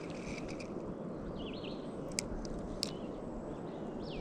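Birds chirping several times over a steady outdoor rushing noise, with two sharp clicks about two and three seconds in.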